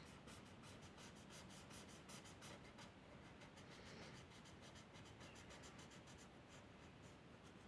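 Faint, quick scratching of a drawing tool on paper, several short strokes a second, as lines are sketched.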